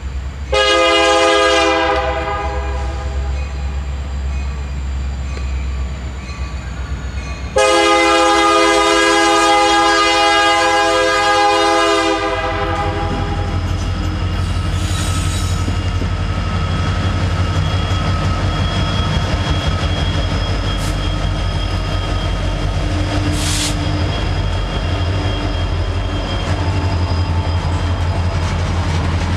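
Union Pacific diesel freight locomotive sounding its multi-note air horn: a short blast about half a second in, then a long blast from about 7 to 12 seconds. After that the locomotives' diesel engines rumble steadily and the wheels click and clatter as the double-stacked container train approaches and passes.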